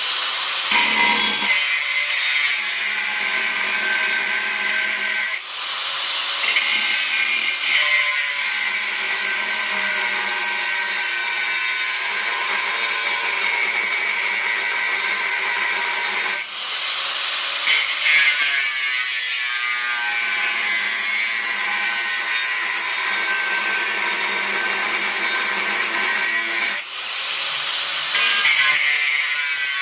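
Power tool working steel plate, running steadily with a brief dip about every eleven seconds.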